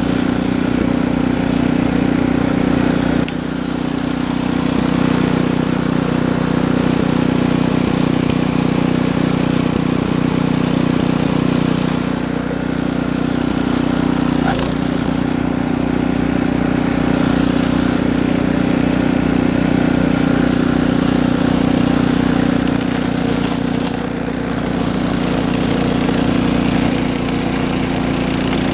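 Snowblower engine running steadily at constant speed, with a couple of brief dips in level.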